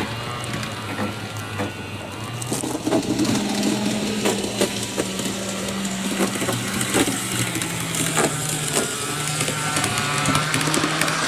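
A worn, roughly forty-year-old Eidai Nine KiHa 40 model railcar running on its track: a steady electric-motor hum that shifts in pitch now and then, with irregular clicks and rattles as it goes.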